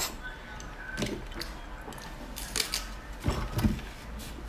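Wet chewing and lip-smacking on a mouthful of sticky sauce-braised pork, with a few sharp mouth clicks and smacks, loudest about three seconds in.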